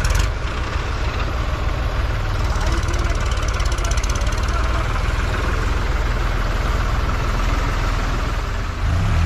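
Large diesel engine of farm machinery running steadily, a deep rumble with a fast, even rattle.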